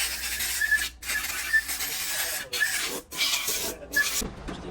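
Rasping, scraping noise in four or five stretches, broken by short abrupt breaks.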